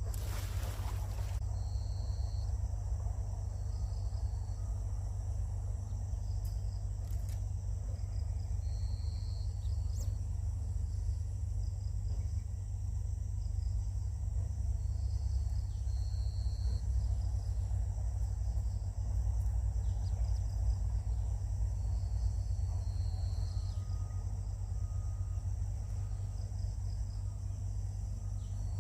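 Outdoor ambience: a steady high insect drone, with short high-pitched chirps every few seconds, over a continuous low rumble.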